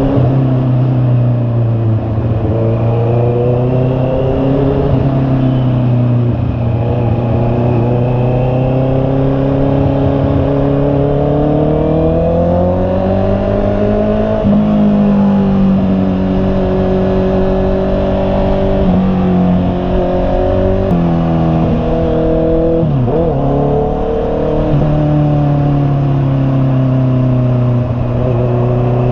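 Honda CB650R's inline-four engine running under way, its note climbing slowly and dropping suddenly about halfway through, then shifting up and down several more times near the end as the rider works the throttle and gears.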